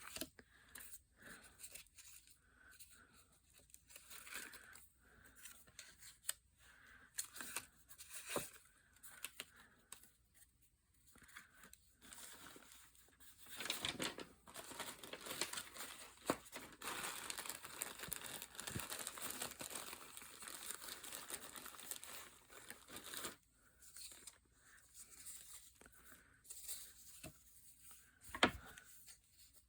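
Paper being handled and worked by hand: scattered taps and rustles, with a denser stretch of paper noise from about 13 to 23 seconds in.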